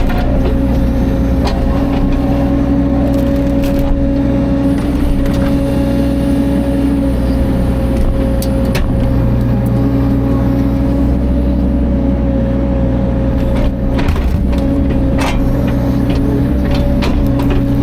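Caterpillar 305.5 mini excavator's diesel engine running steadily, with a steady whine over a low drone and a few sharp knocks and clicks scattered through, a slight dip in the engine sound after about 14 seconds.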